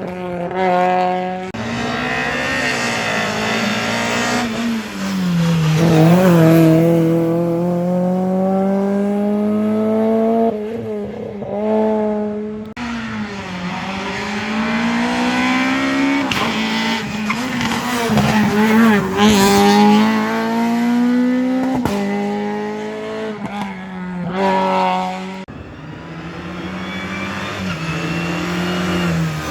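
Rally cars at full speed on a wet special stage, engines revving hard and climbing through the gears with a drop in pitch at each shift, passing one after another.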